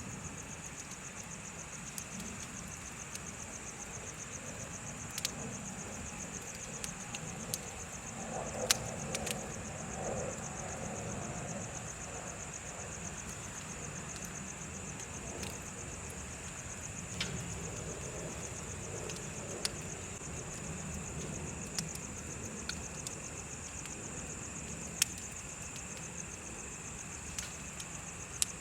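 Bonfire crackling, with sharp pops scattered through and the loudest about nine seconds in and near the end, over a low noisy rush from the fire. Insects chirp throughout in a steady, high, fast-pulsing trill.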